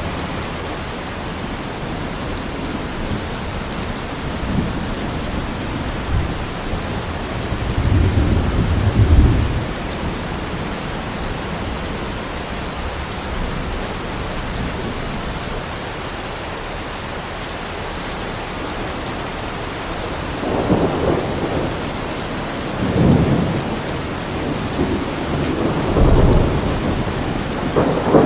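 Steady rain falling, with rolls of thunder rumbling low: one swell about a third of the way in, and several more close together in the last third.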